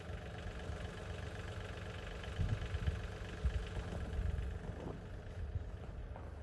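An engine running steadily, with an uneven low rumble beneath it.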